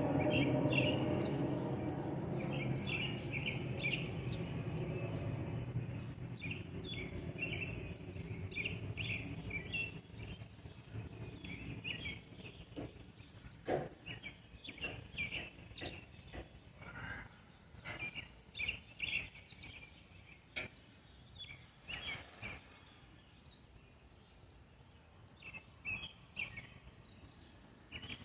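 Small birds chirping over and over, with a low rumble fading away over the first ten seconds or so. A few light clicks and knocks come in the second half.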